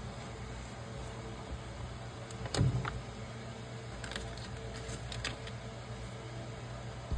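Steady machine hum with a single knock about two and a half seconds in and a few light clicks; the hum cuts off suddenly at the very end.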